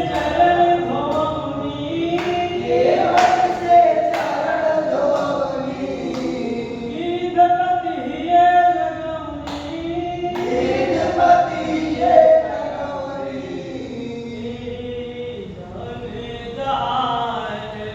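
Voices singing a devotional Hindu bhajan together, largely unaccompanied, with a few sharp claps or taps among the singing.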